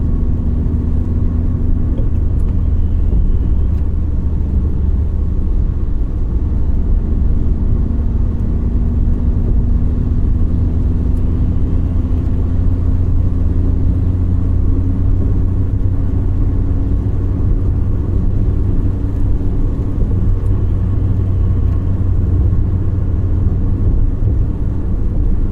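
Car driving with a steady low road rumble. The engine drone rises slowly in pitch through the middle as the car gathers speed, then drops back near the end.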